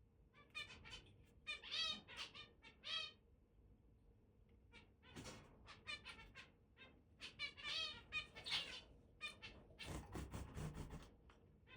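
Long-tailed finch singing: phrases of short, wavering, mewing notes, repeated several times with short pauses between them.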